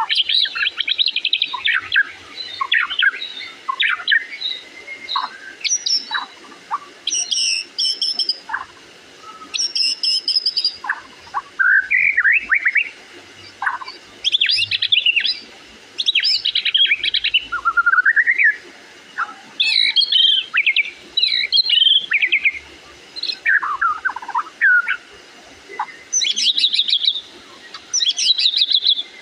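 A murai, a Copsychus songbird, singing a varied whistled song. Short phrases of rising and falling whistles and fast trills come every second or two, with brief pauses between.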